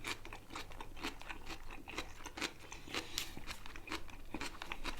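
Close-up chewing of crunchy raw salad vegetables, many short, irregular crunches.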